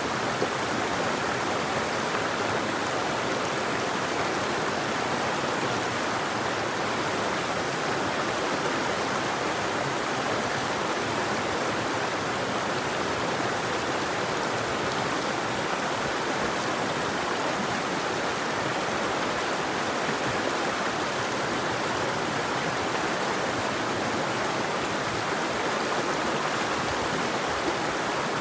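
River or stream water flowing and rushing steadily over rocks, an even unbroken burble.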